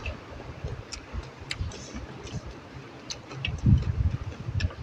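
A person chewing food close to the microphone: scattered wet mouth clicks and lip smacks, with a short run of low chewing sounds a little over halfway through, over a steady hiss.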